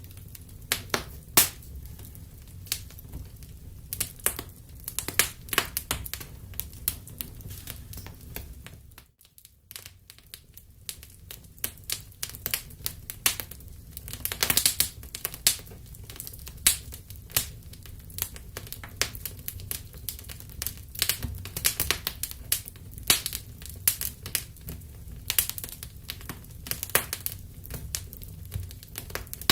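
Wood fire crackling and popping: irregular sharp snaps over a low steady rumble, which drops out briefly about nine seconds in.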